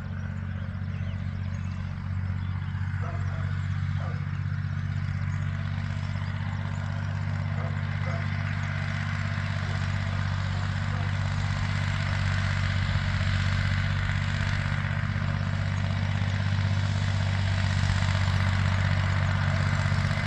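Tractor engine running steadily, a low, even hum that grows gradually louder as the tractor approaches.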